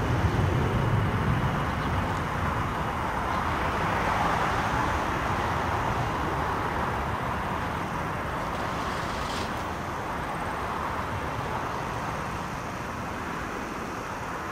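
Aircraft engine noise, a steady rumble and hiss that slowly fades as the aircraft moves away.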